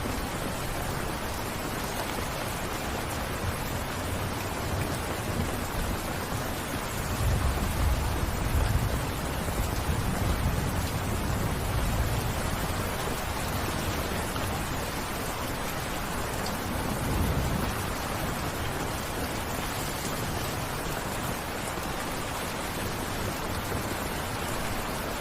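Steady rain falling. A low rumble swells up about a third of the way in and again past the middle.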